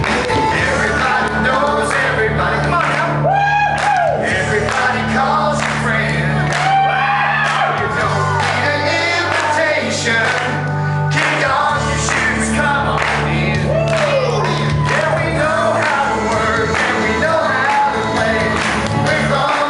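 Live country song: a man singing over a backing band with a steady bass line.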